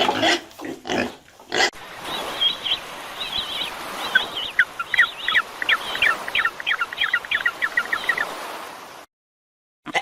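Pig grunting for about two seconds, then steady outdoor hiss with quick, high chirps repeating several times a second. After a brief gap, a sheep's bleat starts right at the end.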